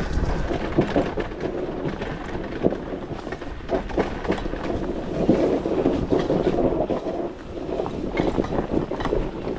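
Dirt bike coasting down a steep trail with its engine switched off: tyres crunching and skidding over loose rock and dirt, with many short clicks and knocks from the bike.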